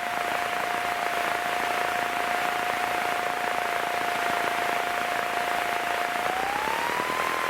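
Piper PA-28 Cherokee cabin noise while taxiing: a steady drone from the engine and propeller with a thin whine held on one pitch, which glides up near the end as the engine speeds up.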